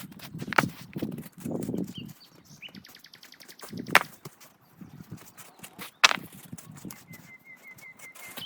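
Camp handling noises in a forest: low thuds and three sharp cracks of wood, with fine crackling between them. A bird trills twice in the background, the second time near the end.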